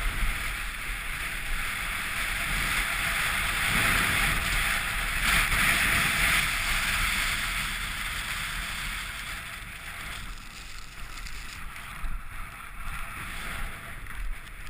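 Rushing whitewater: a steady hiss of moving water that grows louder toward the middle and then eases off.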